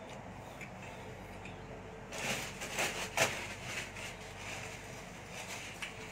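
A person chewing and smacking on a mouthful of roast pork belly, with a burst of louder, quick chewing and smacking sounds about two seconds in and a few softer ones later.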